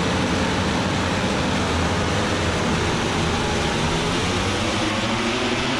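A pack of MotoGP racing motorcycles, four-cylinder four-stroke engines at high revs, accelerating away from the race start. Many engine notes blend into one dense, steady noise.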